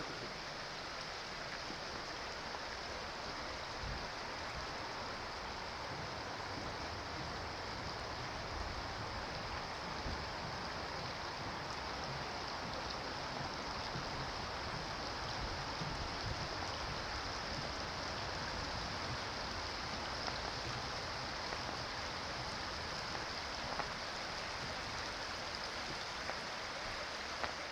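Steady, even hiss of rain, with a faint low rumble underneath.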